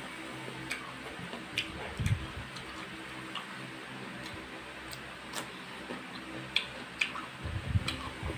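Close-miked eating: sharp, irregular crisp clicks and a few soft thumps as raw cucumber slices are bitten and chewed, over a steady low hum.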